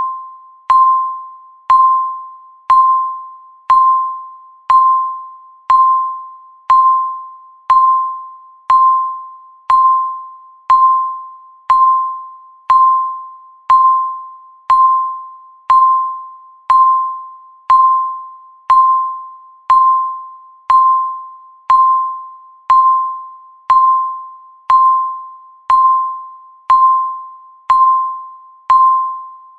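Countdown timer ticking: a short ringing pip, one each second, each starting sharply and dying away before the next.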